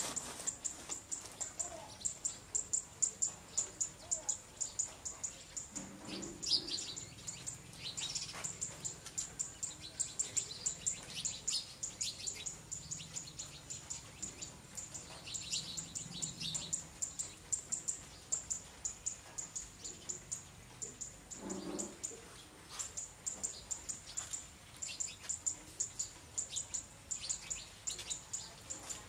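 Birds chirping. A high, quick chirp repeats a few times a second throughout, with louder bursts of chirping from other birds about six seconds in and again around fifteen seconds in.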